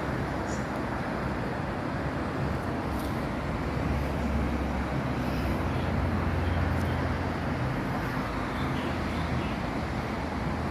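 Steady rumble of passing road traffic, swelling for a few seconds about halfway through.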